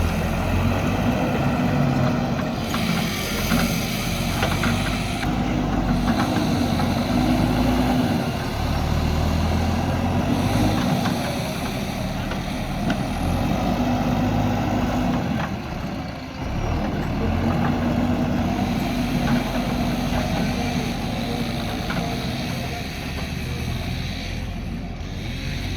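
JCB backhoe loader's diesel engine running under load while digging and loading soil, its note rising and falling as the machine revs up for a few seconds at a time, several times over.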